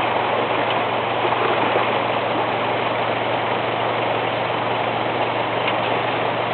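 Off-road vehicle's engine idling steadily, a constant low hum under a continuous even rushing noise.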